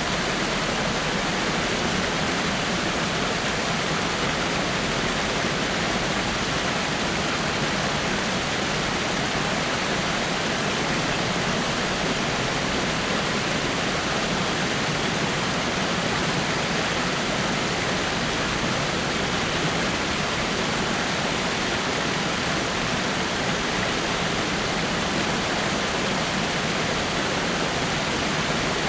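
Water falling over rocks in a small waterfall: a steady, even rushing and splashing.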